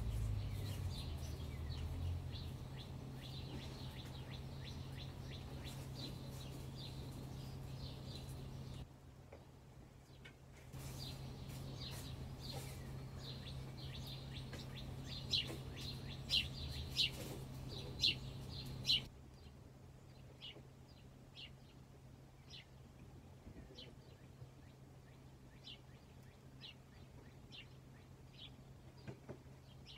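A small bird chirping over and over in short high notes, loudest in a quick run about fifteen to nineteen seconds in. Under it are a steady low hum that breaks off briefly and stops about two-thirds through, and a soft rustle of newspaper and incense sticks being handled.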